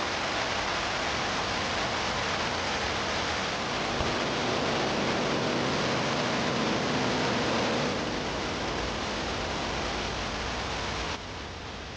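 Steady, dense rushing noise with no distinct events, dropping suddenly to a quieter hiss near the end.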